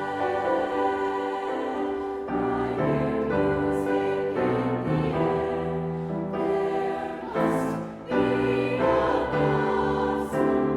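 A choir singing held chords in parts, the harmony moving from chord to chord, with three short sung hissing consonants along the way.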